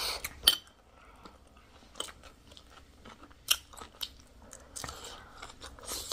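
Close-up eating sounds: chewing and crunching mouthfuls of chatpate, a spicy puffed-rice snack, with scattered short sharp crunches and clicks, the loudest about half a second in.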